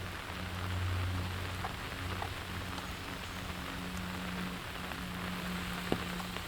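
Steady rain falling, with scattered sharp drips ticking through it and one louder tap near the end. A low hum runs underneath.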